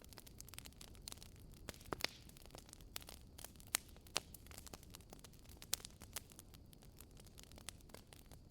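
Wood fire burning in a fireplace: irregular sharp crackles and pops over a low, faint steady rumble, with louder pops about two seconds in and near four and six seconds.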